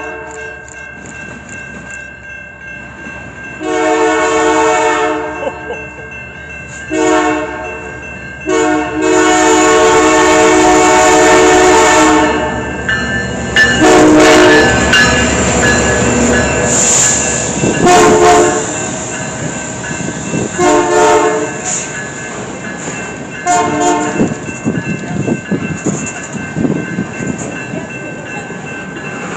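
Locomotive air horn sounding close by: two long blasts, a longer held one, then four shorter blasts, over the rumble of the train passing. Through the second half the cars clatter past with wheels clicking over the rails.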